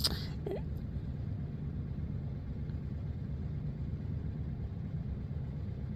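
Steady low rumble of a running vehicle, even in level throughout, with a brief click right at the start.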